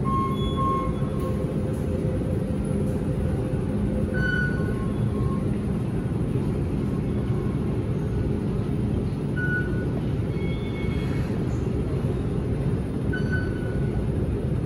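MTR Q-train moving slowly through the depot yard: a steady low rumble, with a few brief high tones over it now and then.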